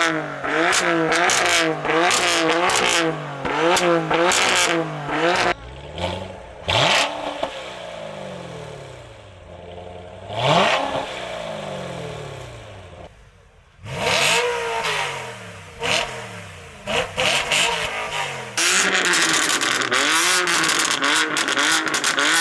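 Car engine being revved: quick repeated throttle blips at first, then a series of long rev-ups that rise and fall in pitch.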